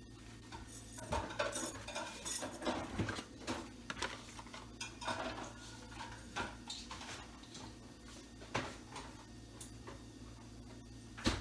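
Kitchen clatter: dishes and food containers being handled and set down, with irregular clinks and knocks and one louder knock near the end.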